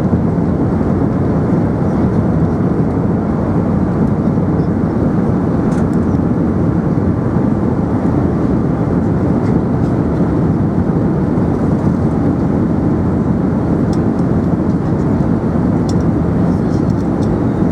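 Steady cabin noise inside an Airbus A380: an even, low rush of engine and airflow noise at constant level, with a few faint light ticks from the cabin.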